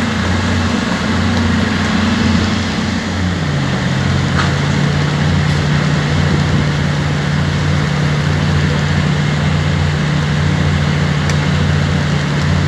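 An engine running steadily, its higher hum dropping in pitch about three seconds in, over a constant hiss.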